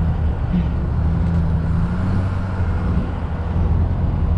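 Street-legal monster truck's engine running steadily, a deep even drone.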